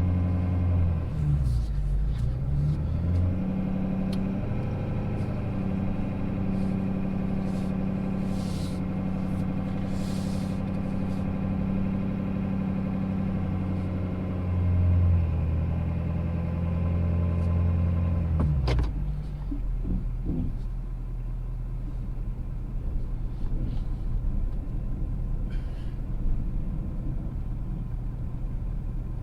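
Ford Super Duty's 6.7-litre Power Stroke V8 diesel running under load as the truck backs up a steep hill. About two-thirds of the way through, a sharp click comes and the engine settles to a lower, quieter note.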